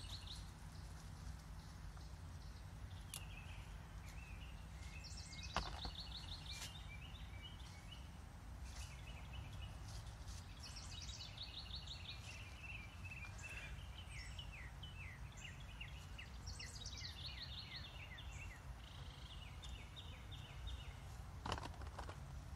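A songbird singing a short phrase of quick notes that step downward, repeated about every five or six seconds, over a steady low outdoor rumble. Two brief sharp clicks, one about five seconds in and one near the end.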